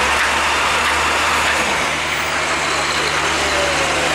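A heavy truck's engine running steadily with a low hum, under a loud, even rushing noise.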